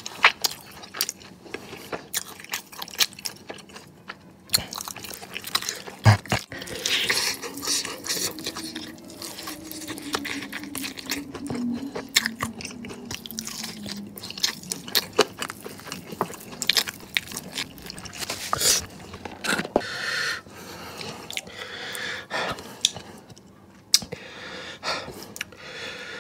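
A person biting into and chewing crispy fried chicken wings coated in Samyang spicy sauce: a steady run of many short, sharp crunches.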